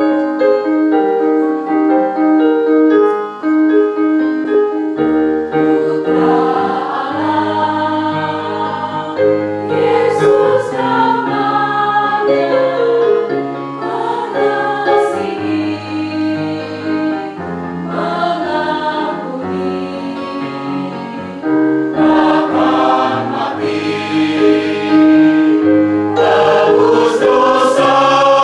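Church choir singing a hymn in parts, with several voices holding sustained notes together.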